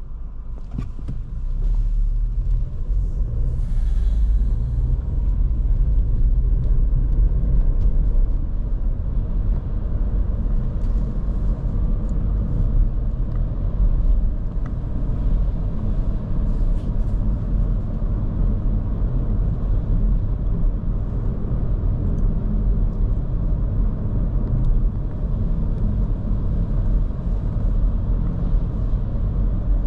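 Low, steady rumble of a moving 2023 Škoda Kamiq 1.0 TSI, its three-cylinder turbo petrol engine and tyres heard from the driver's seat. It grows louder about two seconds in, then holds steady, with a few faint ticks above it.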